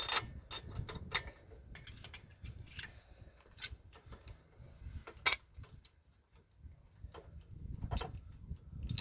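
Scattered light clicks and taps of hand tools and the spark plug being handled while the plug is taken out of the walk-behind tractor's engine, with one sharper click about five seconds in.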